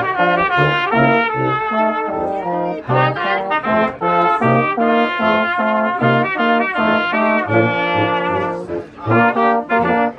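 Brass instruments, trumpet and trombone, playing a tune over a regularly pulsing bass line.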